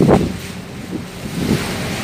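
Wind gusting across the microphone aboard a ferry at sea, with the wash of the sea beneath it. The strongest gust comes at the very start.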